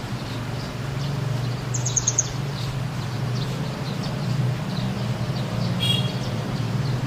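Small birds chirping in short high notes, with a quick trill about two seconds in and a brief call near the end, over a steady low hum.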